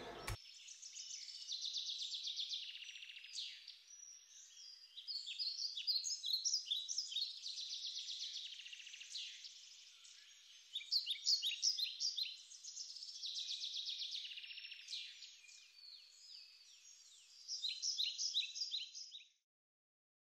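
Birds chirping in several spells of quick, high repeated notes and trills, faint, with short gaps between spells; they stop a little before the end.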